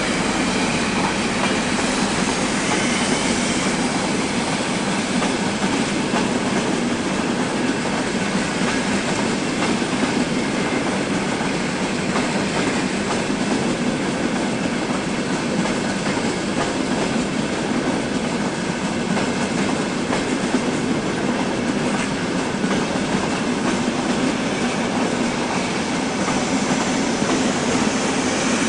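High-speed train's coaches rolling along the platform at low speed, a steady rail rumble with wheel noise throughout.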